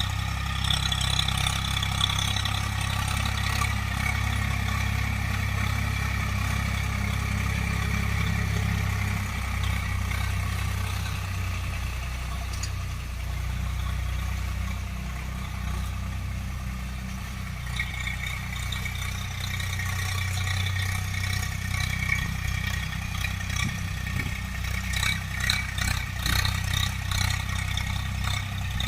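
Tractor diesel engine running steadily. It eases slightly in the middle and picks up again, with some rattling near the end.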